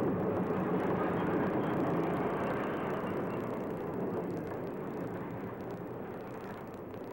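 Steam-hauled passenger train running on the rails, a steady rumble that slowly fades as the train draws away.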